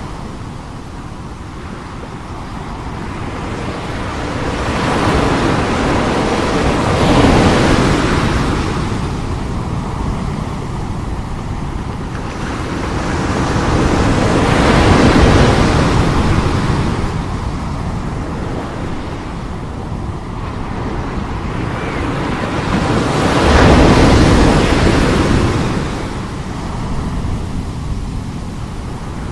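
Very strong sea waves breaking and washing ashore, the surf swelling three times, about every eight seconds.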